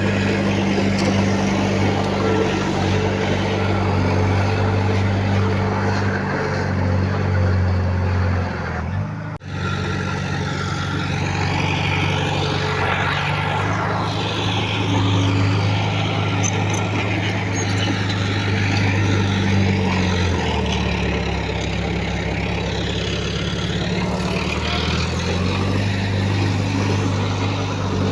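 Heavy earthmoving machine's diesel engine running steadily, with a brief dropout about nine seconds in. Its pitch drops lower for a few seconds around twenty seconds in, then rises back.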